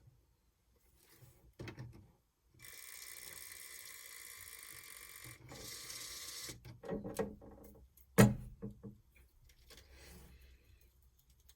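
A small electric motor whirs steadily with a buzzing tone for about four seconds, then stops, followed by several knocks and clicks of plastic parts being handled, one of them sharp and loud.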